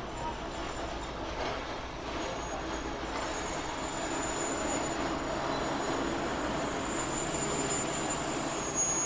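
Passenger train running on the rails, a steady rumble with a thin high wheel squeal that comes and goes.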